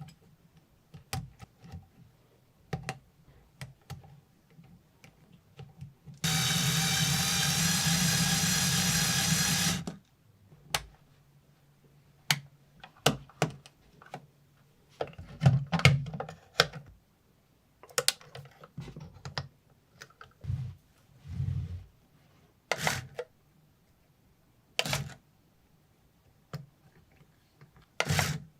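Scattered clicks and knocks of small parts being handled, with a small motor running steadily for about four seconds near the start.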